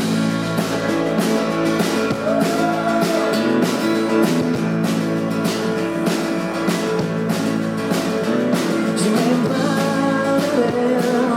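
Live rock band playing an instrumental passage, guitars and bass over a steady drum beat.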